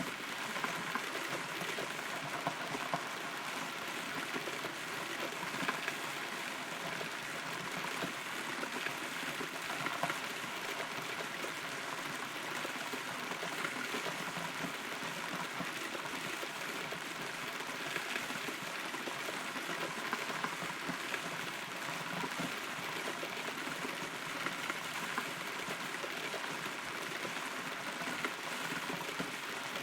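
Steady rain heard from inside a hollow rotten tree trunk, with many single drops pattering on the wood.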